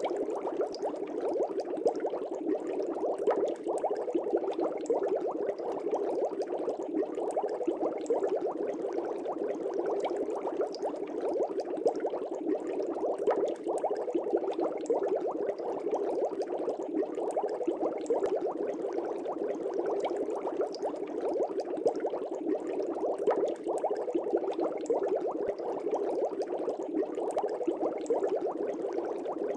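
Aquarium air bubbles rising and burbling in a fish tank: a steady dense bubbling with many small pops, unchanging throughout.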